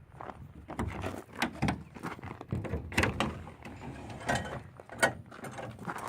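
Metal latches and a hinged access door on a generator's sheet-metal housing being worked open: an irregular series of clicks, clunks and rattles, with sharper knocks about three and five seconds in.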